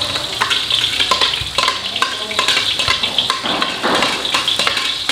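Blended chilli, shallot and garlic spice paste sizzling as it drops into hot oil in a stainless steel wok, with a metal ladle scraping and knocking against the blender jug to get the paste out.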